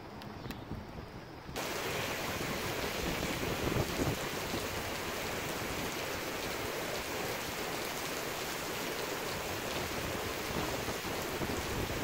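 Wind buffeting the microphone, then from about a second and a half in, heavy thunderstorm rain pouring steadily.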